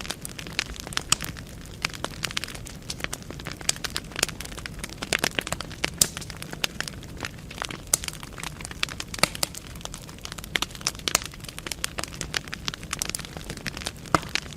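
Wood fire burning in a fireplace, with irregular sharp crackles and pops from the burning logs over a steady low hiss.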